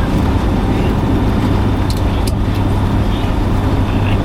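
Steady loud rumble inside the cabin of a Boeing 757-200 airliner: engine and airflow noise with a strong low hum. Two short clicks or rattles come about two seconds in.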